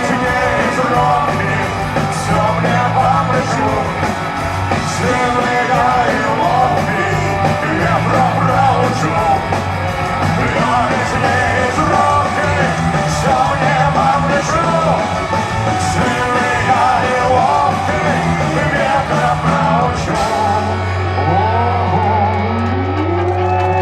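Rock band playing a loud, guitar-driven instrumental ending with no lyrics sung. Near the end it settles on one long held low note.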